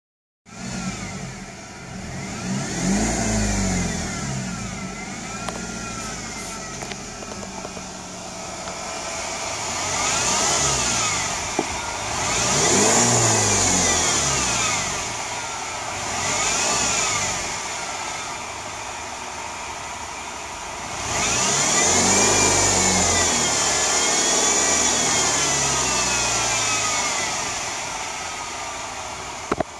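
BMW E90 320i four-cylinder petrol engine idling and revved up and back down about six times, the last rev held for several seconds, with a high whine that comes up with each rev. The whine comes from the belt drive, which the owner suspects is worn pulleys or alternator bearings.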